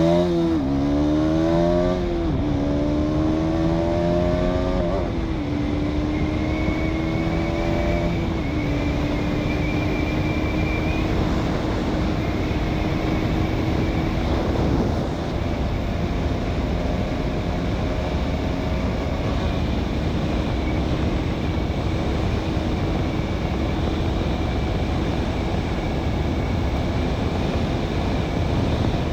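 KTM Duke 200's single-cylinder engine at full throttle, accelerating through the gears toward top speed. The revs climb and drop back with upshifts about 2, 5, 8 and 15 seconds in, then pull slowly higher and hold in top gear.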